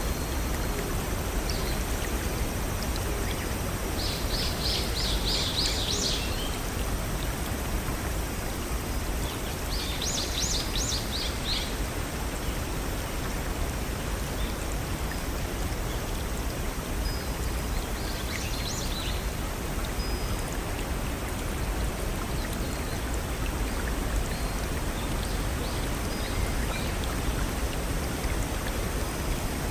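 Steady rushing of a small forest stream or waterfall. Over it a songbird sings short trills of rapid, high repeated notes four times, loudest about five and eleven seconds in.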